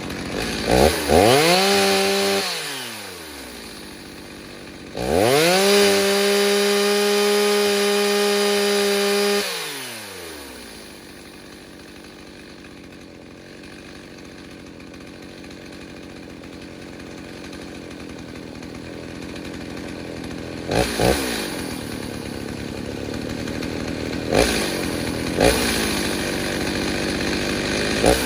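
Stihl 029 two-stroke chainsaw, freshly rebuilt with a 45 mm big-bore cylinder and on its first tank, revved up briefly, then held at full throttle for about four seconds before dropping back to idle. It then idles steadily, with a few quick throttle blips near the end.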